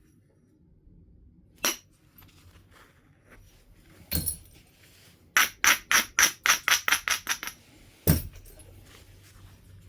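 Flint being worked by percussion: a sharp strike, then another, then a quick run of about a dozen light taps at roughly five a second, then one hard strike near the end, the loudest of all.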